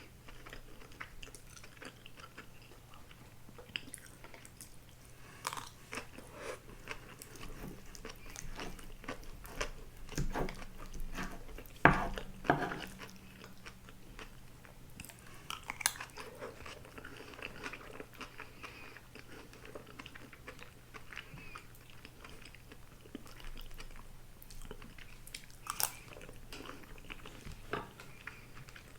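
Close-miked chewing of grilled eel and rice: soft wet mouth clicks and smacks at an irregular pace, with a few louder bites, the loudest about twelve seconds in.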